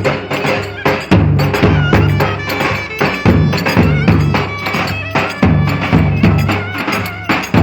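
Live Turkish folk dance music of the köçek kind: a reedy wind melody with wavering ornaments over busy hand percussion and a heavy, steady bass.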